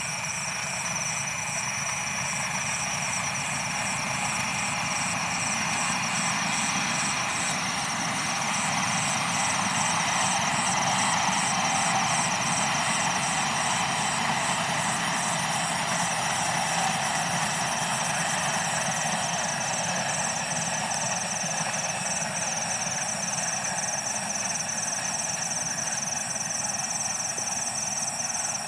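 Sembrani express passenger train, diesel-hauled, running past at a distance: a steady rumble of wheels on rails that swells about halfway through and then slowly eases. Over it runs a constant high insect trill with a faster pulsing chirp above it, from the night rice fields.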